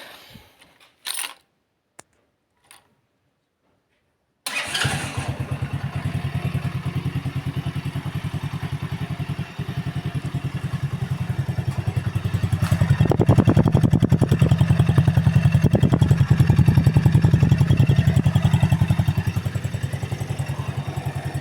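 Alpha moped's single-cylinder four-stroke engine started from cold: after a couple of short clicks, it catches abruptly about four and a half seconds in and settles into a steady, even idle. It runs louder for several seconds in the middle, then eases back.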